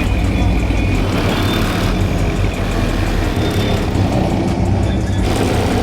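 A car engine running loud with a steady low rumble, with no break.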